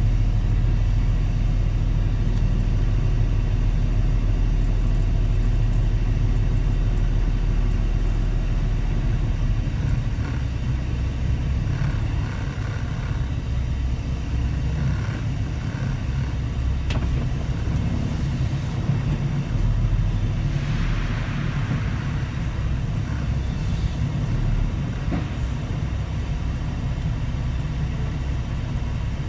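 Semi truck's diesel engine running with a steady low rumble while driving, easing off a little about ten seconds in, with a brief hiss about two-thirds of the way through.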